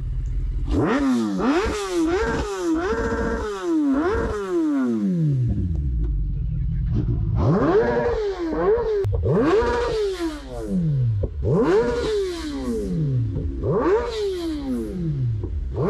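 Motorcycle engine idling and revved in a series of throttle blips, each sharp rise in revs falling back to idle: four or five quick blips in the first few seconds, then one about every two seconds.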